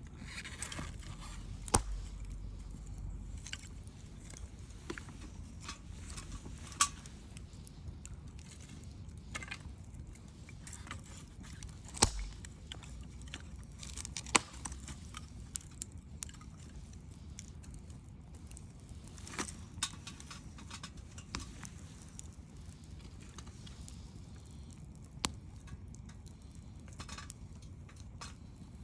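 Wood bonfire crackling: irregular sharp pops and snaps, a few of them much louder, over a steady low rumble.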